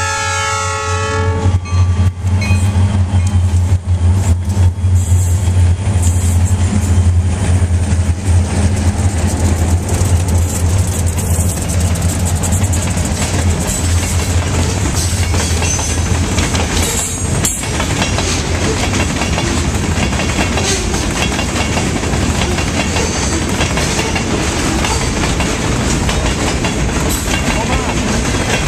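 Diesel freight train horn sounding for its last second and a half, then the train passing close by: a loud, low engine drone from the SD40 locomotives, easing after about the first half into the steady rumble and clatter of freight cars rolling over the rails.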